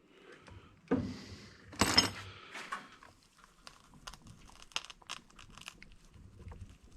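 Tools and objects being handled on a cluttered workbench: irregular clatter, clicks and rustling, with two louder knocks about one and two seconds in.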